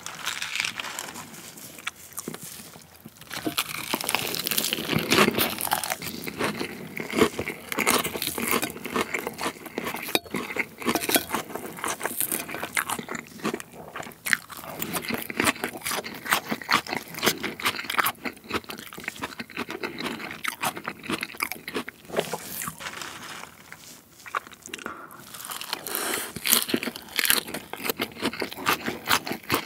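Close-miked crunching and chewing of fresh leafy salad greens: a dense run of crisp crackles and bites, easing briefly a little before the end and then picking up again.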